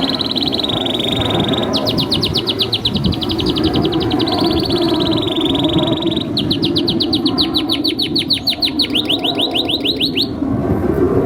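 Domestic canary singing: a held whistled note, then two long, fast trills of rapidly repeated notes. The song breaks off about a second before the end, over a steady low background noise.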